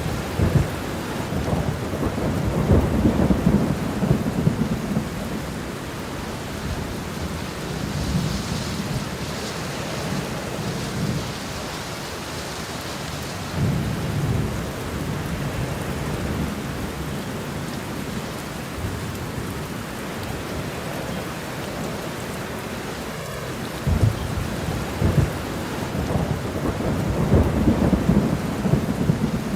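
Steady rain falling, with rolling thunder rumbling low several times: near the start, once around the middle, and again building near the end.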